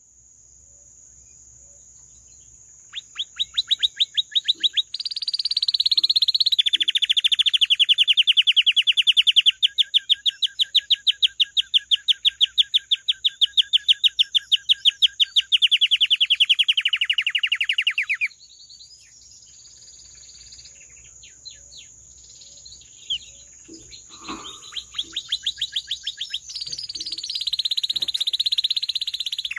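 Domestic canary singing: long rolling trills of rapidly repeated notes, the loudest running for about twelve seconds after a quiet start, then scattered notes and more trills near the end.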